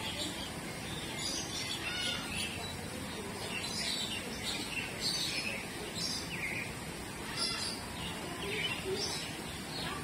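Birds chirping in an aviary: short high chirps repeating every second or so over steady background noise.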